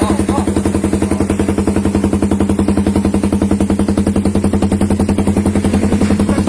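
Suzuki Raider 150 motorcycle engine idling steadily through an aftermarket exhaust pipe, with an even, rapid pulsing beat.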